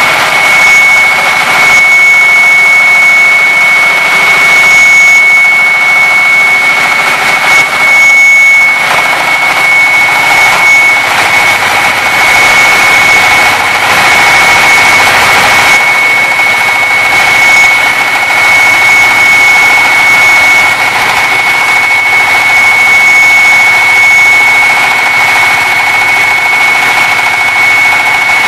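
A 14 hp concrete cutting machine running at speed: a loud, steady engine noise with a high whine held at one unchanging pitch, the noise swelling somewhat around the middle.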